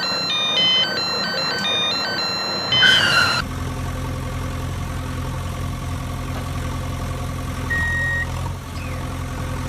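A chiming electronic tune of stepping beeps, like a vehicle's reversing melody, plays for about three seconds and cuts off. A steady engine hum then runs, with one short beep about eight seconds in.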